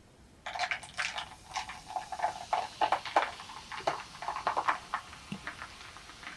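Close-miked chewing of egg drop toast (soft bread with egg filling): irregular wet mouth clicks and smacks, starting about half a second in and tapering off after about five seconds.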